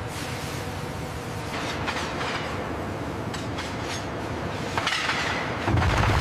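Industrial machinery running steadily, with a series of sharp metallic clanks and clinks. A louder, deeper rumble comes in near the end.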